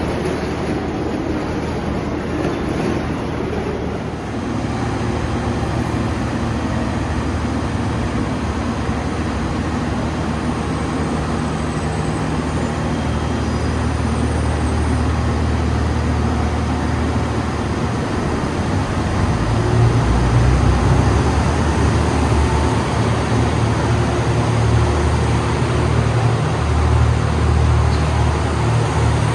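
A train moving at a station platform: a steady low rumble with a low hum. It grows a little louder about twenty seconds in.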